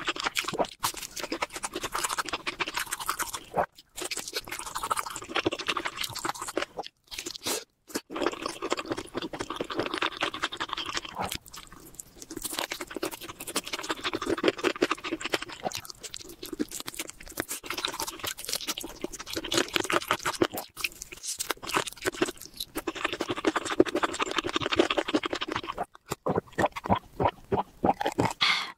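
Close-miked mouth sounds of a person eating: wet chewing and crisp crunching of fried food, going on steadily with a few brief pauses.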